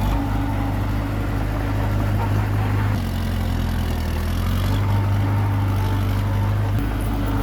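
Komatsu D21P bulldozer's diesel engine running steadily as it works, its pitch shifting slightly a few times as the load changes.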